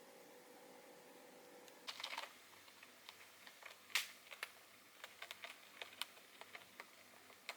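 A faint steady hum cuts off about two seconds in. Light, irregular clicks and taps follow, a quick cluster first and the sharpest click about four seconds in.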